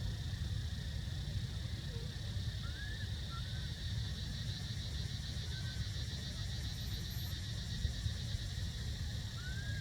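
Outdoor ambience: a steady low rumble and a steady high hiss, with a few short, high, arched chirping calls around three seconds in, near the middle and at the end.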